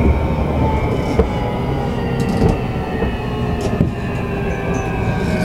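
JR East E235 series electric train running, heard from inside the passenger car: a steady rumble of wheels on the rails with the faint whine of the traction motors. A few short knocks come from the wheels passing rail joints.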